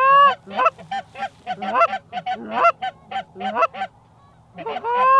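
Goose honks and clucks in a quick, steady run of about three to four notes a second, some notes rising in pitch, with a brief lull near the end before a loud rising honk.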